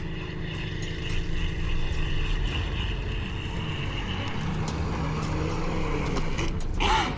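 Homemade RC boat running, its motor giving a steady high whine over a low rumble, with the abnormal sound of a broken cross joint (universal joint) on the propeller shaft. A short, sharp, wavering sound comes near the end.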